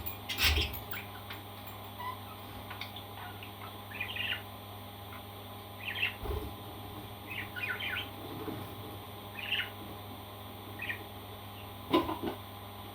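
Pet parrot making short chirps and squawks every second or two. There is a louder, sharper knock or clatter shortly after the start and again near the end.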